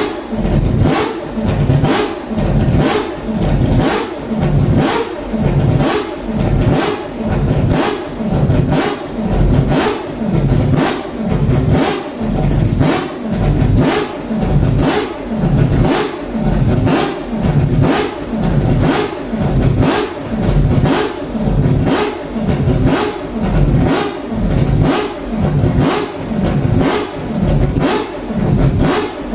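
Mazda 787B's four-rotor rotary racing engine held running with steady, rhythmic throttle blips: it revs up and falls back about once every second and a bit, over and over.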